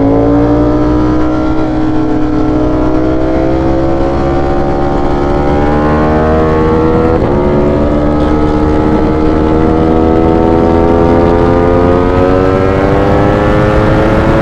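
Ducati Streetfighter V4 sport bike's V4 engine pulling steadily, its pitch climbing slowly as it gains speed, with a brief hitch about seven seconds in. Wind rushes over the microphone underneath.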